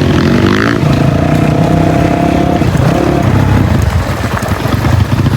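Dirt bike engines running, with a short rise in revs near the start before the pitch holds steady.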